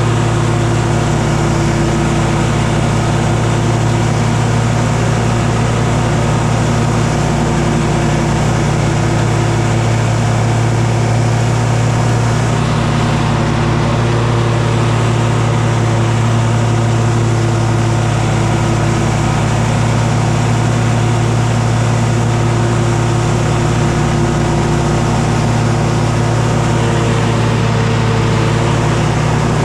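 Engine running steadily at a constant speed, an unbroken low hum with a rushing noise over it.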